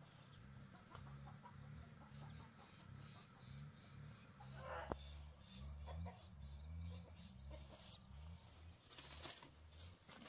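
Faint bird calls, one short rising call about four and a half seconds in, over a low uneven rumble and scattered small clicks.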